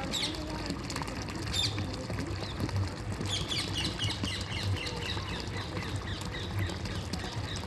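Birds calling over flowing water: a few sharp chirps early on, then a quick run of descending chirps from about three seconds in, with the water's steady noise underneath.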